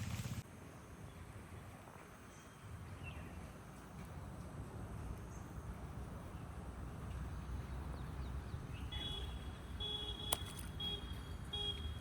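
Steady low outdoor rumble; a rain hiss cuts off just after the start. From about nine seconds in, a run of short, high-pitched electronic-sounding beeps repeats several times, with one sharp click among them.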